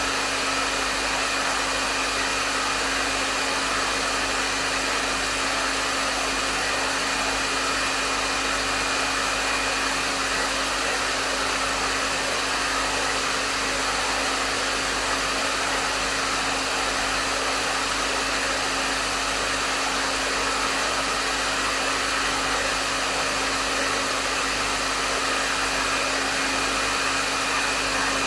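Hair dryer blowing steadily: an even rush of air over a steady motor hum with a faint high whine, with no changes.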